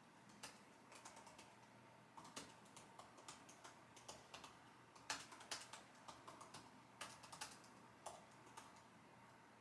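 Quiet typing on a computer keyboard: irregular runs of key clicks with short pauses between them, a few keystrokes struck harder than the rest.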